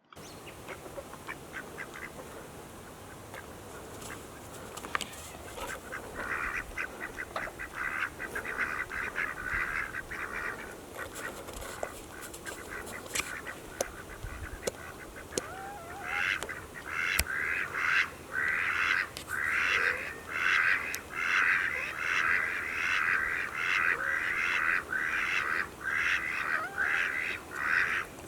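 Ducks quacking in long runs of short repeated quacks: one run about six seconds in, and a longer, steadier series from a little past halfway on.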